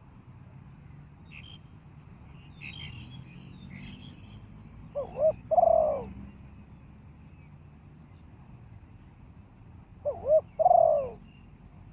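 Spotted dove cooing twice, about five seconds apart, each call two short notes followed by a longer coo that falls away at the end. Faint chirps of small birds come early on, over a low rumble of wind.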